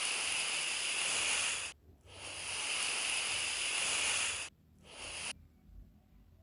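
Snake hissing: two long hisses and then a short one near the end.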